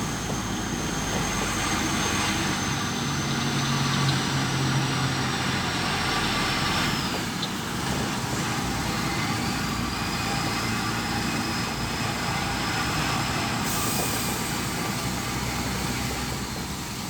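Road traffic with heavy trucks: steady engine and tyre noise, with a faint high whine that slowly falls in pitch and drops away about seven seconds in.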